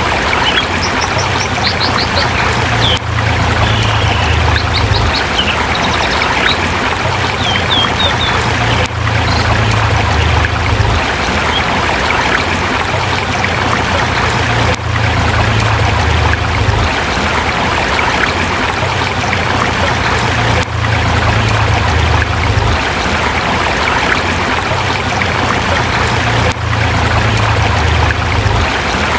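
Forest river flowing steadily over rocks, a constant rush of water. Small birds chirp in short bursts several times during the first several seconds.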